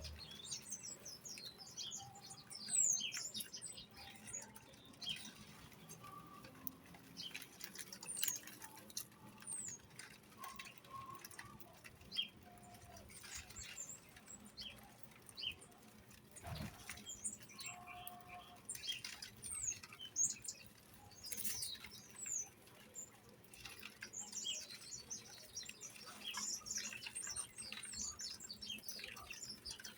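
A flock of small birds chirping and twittering, many short, high, quick calls overlapping, with scattered clicks and brief wing flutters.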